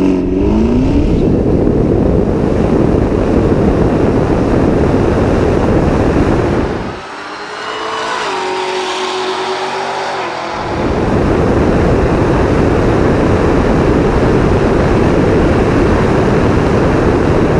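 Stripped Tesla Model S P100D making a drag-strip run: its electric motor whine rises at the launch, under loud, steady road and wind noise. About seven seconds in, the low rumble drops away for a few seconds as the driver lets off, leaving fainter gliding tones, then it returns.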